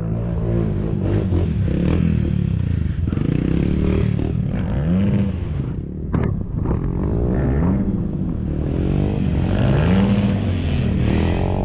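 Dirt bike engine revving up and down again and again as the throttle is worked on a hard enduro section. A sharp knock cuts in about six seconds in.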